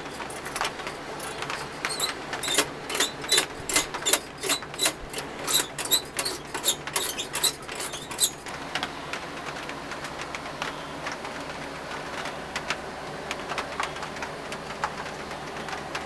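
Light metal clinks and taps, about two a second for several seconds, each with a short ring. They then give way to softer, scattered handling clicks over a steady low hum.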